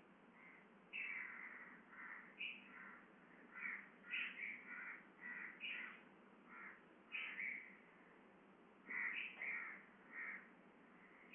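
A bird calling over and over: short calls, one or two a second, with a brief pause about two thirds of the way through, over a faint steady hiss.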